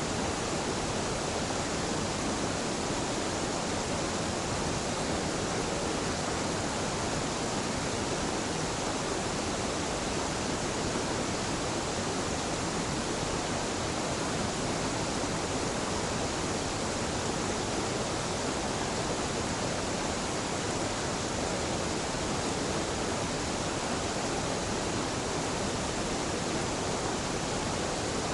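Small mountain waterfall pouring steadily: an even, unbroken rush of falling water.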